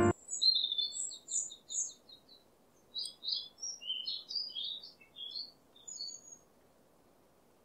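Birdsong: a quick run of high chirps, then after a short pause a second, more varied phrase of chirps and twitters that stops about six and a half seconds in.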